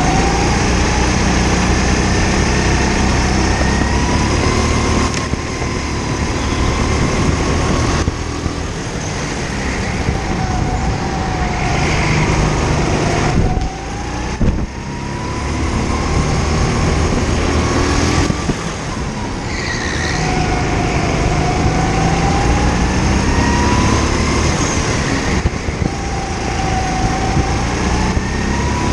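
Go-kart engine running under hard throttle, its pitch rising on the straights and falling off as the driver lifts for corners, lap after lap, with other karts' engines audible at the same time.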